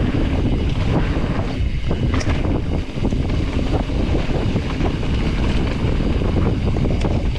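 Wind rushing over the microphone of a mountain bike descending fast on a dirt trail, with steady tyre-and-trail rumble and two sharp clicks or knocks from the bike, about two seconds in and near the end.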